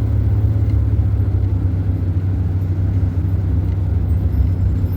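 Steady low rumble of a van driving along, engine and road noise heard from inside the cabin.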